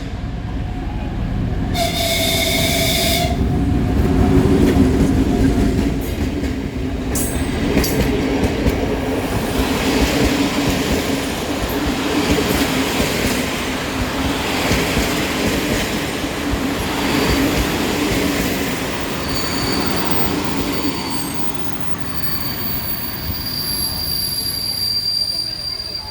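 MÁV M62 diesel locomotive pulling into a station. A short horn blast comes about two seconds in, then the steady drone of its two-stroke V12 diesel engine and the rumble of the train rolling past. High-pitched wheel and brake squeal sets in over the last several seconds as it slows.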